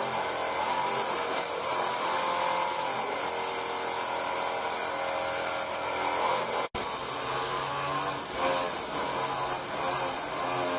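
A small power tool running steadily with a high-pitched whine and hiss. It cuts out for an instant about two-thirds of the way through.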